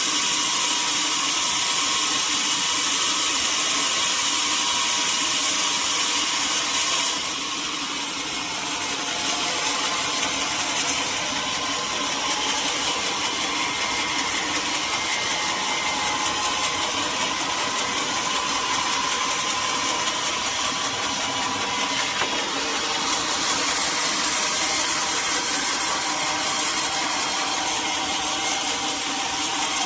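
Sawmill saw cutting through a teak log, running steadily with a faint whine. It eases off about seven seconds in and gets louder again in the last quarter as the load on the blade changes.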